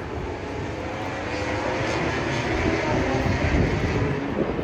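MotoGP race bike engine running at high revs on track, growing louder to a peak about three and a half seconds in as it passes.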